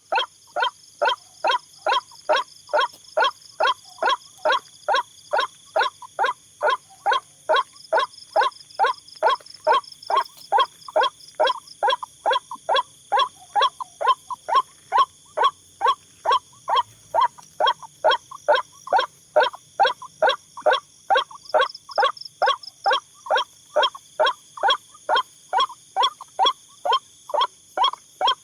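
White-breasted waterhen calling, a short falling note repeated evenly about twice a second. A steady high-pitched whine runs underneath.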